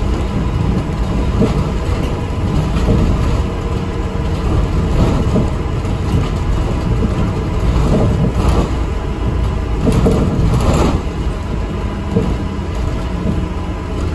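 Cabin noise of an ADL Enviro 400 MMC double-decker bus under way: a steady low engine and road rumble with rattling from the body, rising in a few louder surges about eight and ten seconds in.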